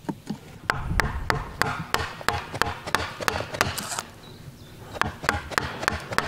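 Wood chisel being struck to chop out a sawn notch in a log: a run of sharp wooden knocks, about three a second, pausing briefly around four seconds in and then starting again.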